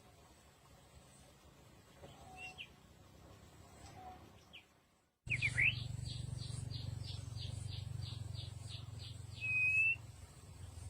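White-rumped shama calls: faint short chirps, then, after an abrupt break about five seconds in, a quick run of short high notes about three a second and a loud rising whistle near the end, over a steady low hum.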